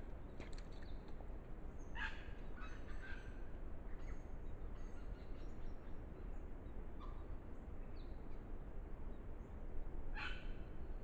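A few short bird calls over steady low background noise. The clearest comes about two seconds in, with the loudest near the end.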